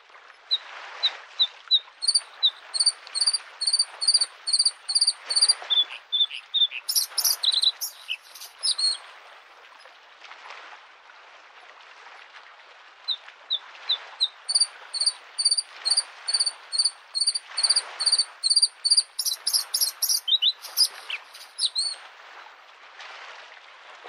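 Bluethroat singing two long song phrases, each a quick run of repeated ringing notes that ends in a burst of varied twittering, with a pause of a few seconds between them. Small lake waves wash softly on the shore every couple of seconds underneath.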